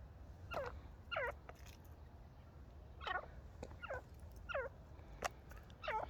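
Pet francolin (teetar) giving about six short calls, each falling quickly in pitch, spaced irregularly, with a couple of sharp clicks in between.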